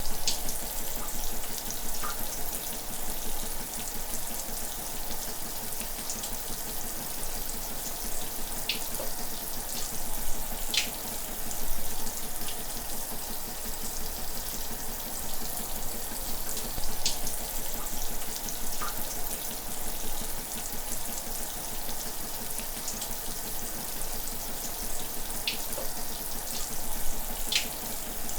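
Shower running: a steady hiss of falling water, with a few brief sharper splashes scattered through it.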